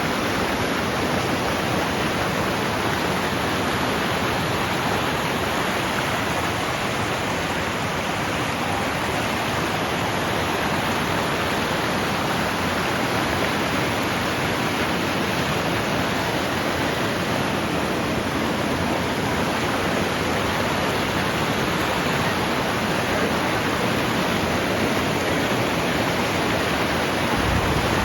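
A river rushing, a steady, even rush of flowing water that does not change.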